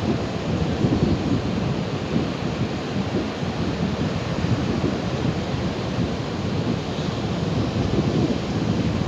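Ocean surf: a continuous, steady wash of waves, heavy in the low end, with no single breaker standing out.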